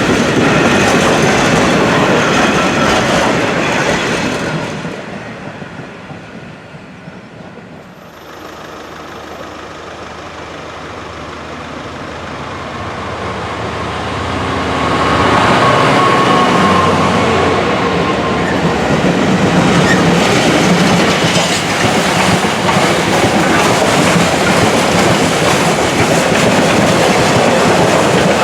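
A train running past on the rails, its noise fading away over a few seconds. Then another train approaches, growing louder until it runs past at full volume through the rest of the stretch.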